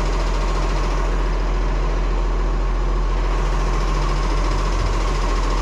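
Garbage truck engine idling, a steady low hum.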